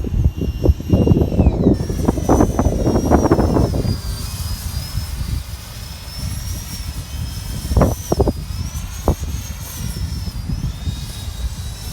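Dassault Mirage 2000 jet engine running with a high whine that wavers in pitch, under heavy wind buffeting on the microphone that is loudest in the first few seconds. A few sharp knocks come around the middle.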